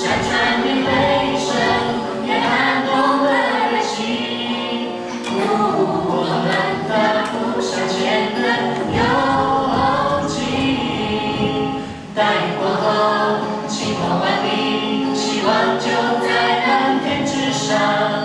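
A choir singing, many voices together, with a brief break about twelve seconds in.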